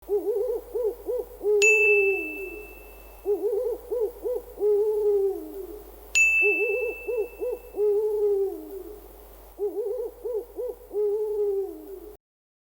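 A bird's call repeated four times, each a quick run of short notes ending in one longer, falling note. A bright bell-like ding sounds twice, about 1.5 and 6 seconds in, each ringing on briefly.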